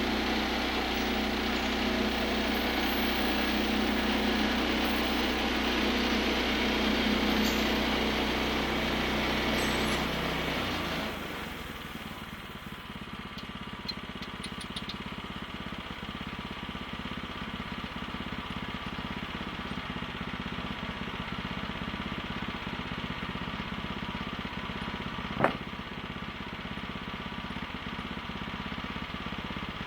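Gasoline engine of a bandsaw sawmill running at speed, then throttled down to a steady idle about ten seconds in. A brief sharp click or knock near the end.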